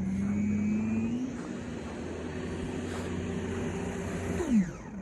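An engine running steadily at high speed, its pitch dropping away near the end as it slows.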